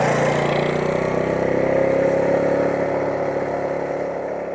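Kawasaki KLR650's single-cylinder engine running at a steady speed while riding. It eases off and grows quieter near the end.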